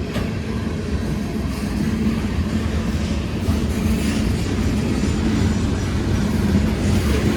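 Long freight train's loaded coal cars rolling past: a steady rumble of steel wheels on rail, with light clacking over the rail joints.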